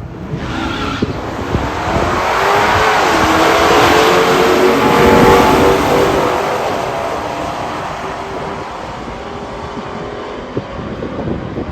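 Pure-stock muscle cars' V8 engines at full throttle on a drag-strip run. The sound builds for about five seconds, the pitch dropping briefly once at a gear change, then fades away down the track.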